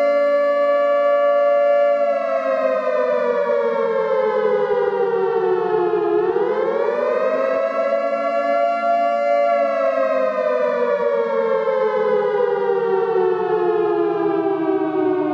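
Civil defense air-raid siren wailing on two pitches sounded together. It holds steady, then winds down, swings back up quickly, holds again briefly, and begins a long slow fall to the end.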